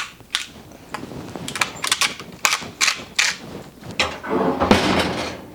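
Sharp, irregular clicks and taps of kitchen containers and utensils being handled, about a dozen in four seconds, followed by a longer rustling scrape.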